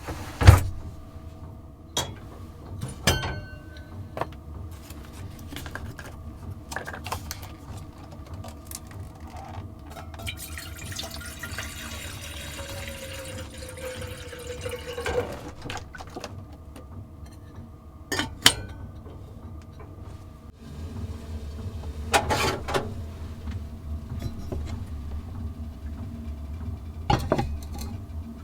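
Water poured into a container for about six seconds, around the middle, among scattered clicks and knocks of gear being handled.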